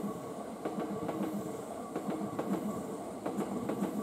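Hankyu Railway electric train passing close by, a steady rumble of wheels on rails with repeated clacks as the wheels cross the rail joints.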